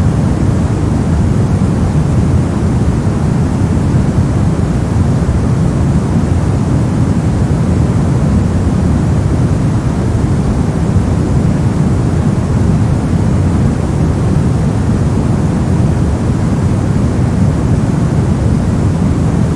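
Steady white noise for sleep, an even, unchanging hiss weighted toward the low end, so it sounds deep rather than bright.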